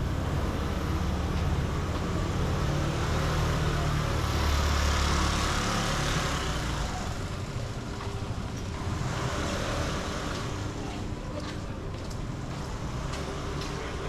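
Street traffic on a rain-wet road: a vehicle engine rumbling low, and passing vehicles whose tyres hiss on the wet pavement, the hiss swelling twice.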